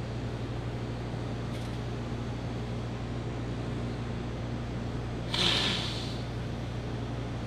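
Steady low hum, with a short hissing whoosh about five seconds in.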